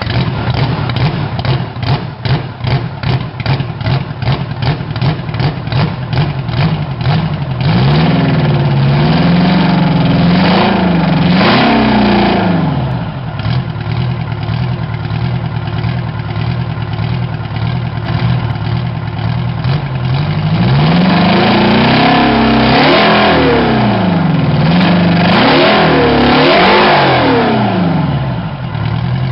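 Turbocharged Detroit Diesel 8V53T two-stroke V8 running on its first start after years of inactivity. For the first several seconds it runs with an uneven, pulsing beat. It is then revved up and down repeatedly, in two spells, about eight seconds in and again past twenty seconds.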